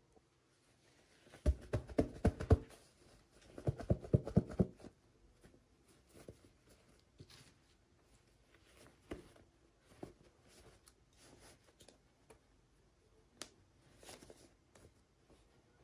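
Hands unboxing miniature toys, handling their packaging: two short bursts of rapid crinkling and clicking, then scattered soft clicks and taps.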